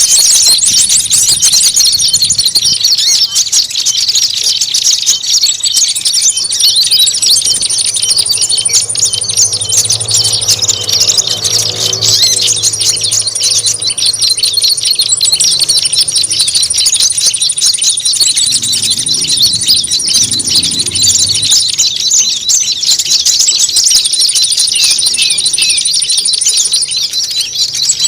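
A bird-lure (pikat) recording of many small songbirds calling at once: a dense, loud racket of rapid high chirps and scolding calls, with a thin high trill that comes and goes in long stretches over it.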